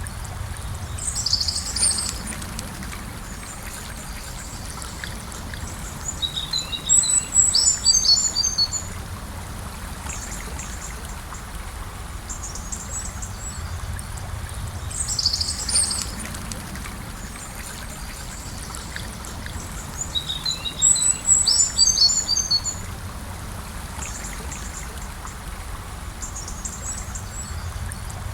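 Gentle river flowing steadily, with small birds chirping high-pitched in short clusters that come back in the same pattern about every 14 seconds.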